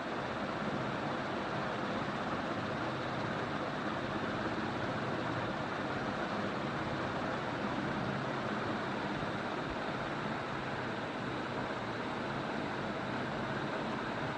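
KBF KB-56-6-2 ceiling fan with Matsushita-style blades running steadily: an even rush of moving air with a faint low hum under it.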